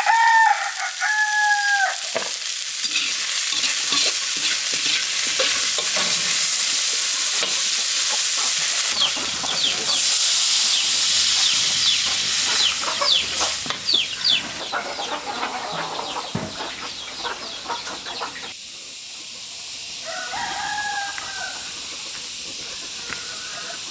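Food sizzling and crackling in hot oil, a dense hiss with many small pops. A rooster crows at the start and again about 20 seconds in.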